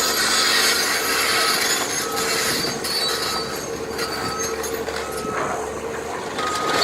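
Demolition machinery running, with a back-up alarm beeping about once a second over a steady engine and a high squealing noise.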